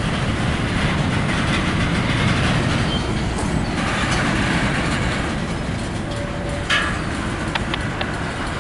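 Empty grain train's freight cars rolling slowly past on the rails, a steady rumble with wheel clatter. A single sharp knock about seven seconds in, then a few lighter clicks.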